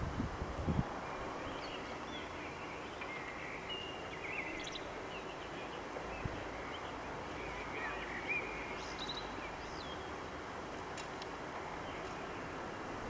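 Small birds chirping in short repeated calls over a steady background hum, with a few low bumps in the first second.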